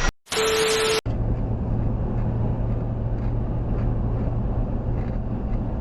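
A vehicle running with a steady low hum and rumble. It is preceded about a second earlier by a brief steady mid-pitched tone between abrupt cuts.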